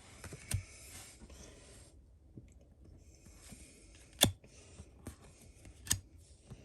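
Yu-Gi-Oh! trading cards being handled and leafed through: soft rustling of card stock with a few sharp clicks, the loudest about four seconds in and another near six seconds.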